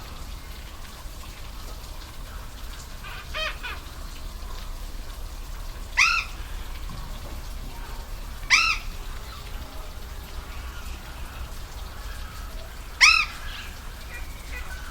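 A bird gives short pitched calls: one faint, then three loud ones a few seconds apart. Beneath them runs the steady rush of a waterfall.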